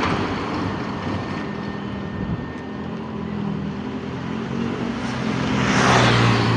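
A motor vehicle's engine running with road noise, getting louder about six seconds in as it revs or draws close.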